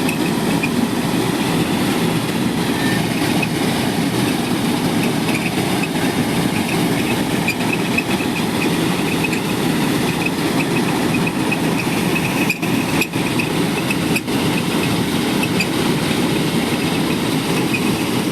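KS 9300 combine harvester's diesel engine running steadily, with a few very brief dropouts a little past the middle.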